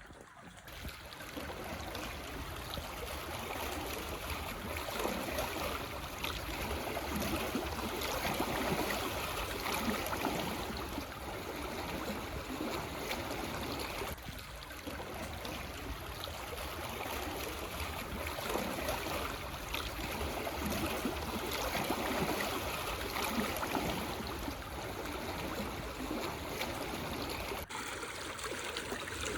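Gentle sea waves lapping and washing over stones on the shore, a steady watery wash that swells and eases every few seconds.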